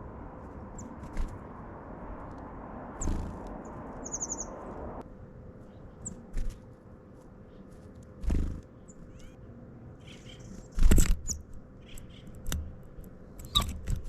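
Small birds giving short, high chirps and one quick trill, with several dull thumps and knocks in between, over a steady hiss that drops away about five seconds in.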